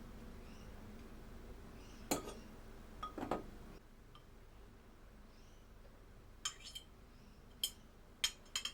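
A series of short, light clinks of kitchen utensils against dishes, seven or so, spaced irregularly, with two close together near the middle and a cluster near the end.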